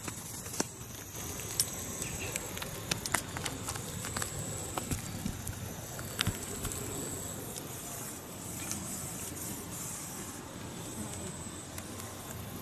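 Riverside outdoor ambience: a steady rush of flowing water with high, thin insect trills that come and go, and a few scattered sharp clicks.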